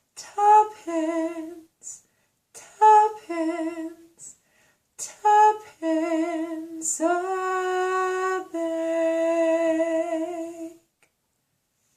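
A woman's voice sings or hums the closing phrases of a lullaby, unaccompanied. Short notes give way to two long notes held with vibrato, and the voice stops about two thirds of the way through.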